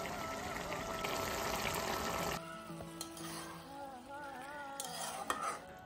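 Cauliflower-and-broccoli curry sizzling in a metal kadhai, with background music. The sizzle cuts off about two seconds in, leaving a few ladle scrapes and clinks against the pan.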